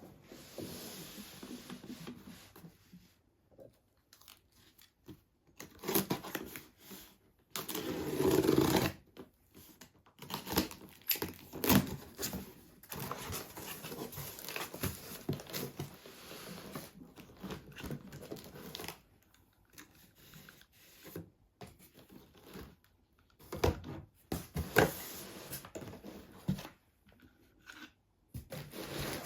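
Wrapping material being crinkled and torn by hand in short bursts, with abrupt pauses between them.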